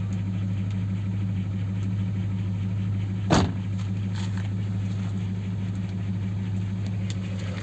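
Audi A8's 4.2-litre ABZ V8 engine running steadily at idle, warmed up to operating temperature, with one sharp knock about three seconds in.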